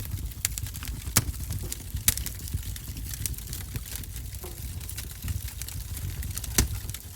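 Wood fire crackling in a wood-burning stove: scattered sharp pops and snaps over a low rumble, with louder pops about a second in, about two seconds in and near the end.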